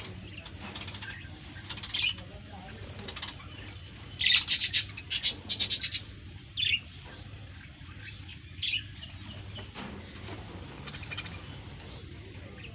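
Birds chirping: short chirps scattered throughout, with a loud rapid run of repeated chirps about four to six seconds in.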